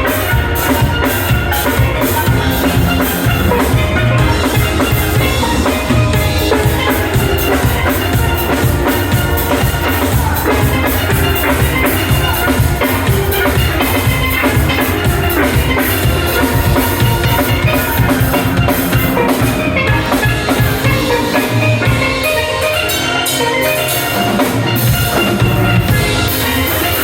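Steel band playing a lively tune: many rapid ringing steel pan notes over a drum kit and bass pans, with the low end dropping away for a few seconds near the end.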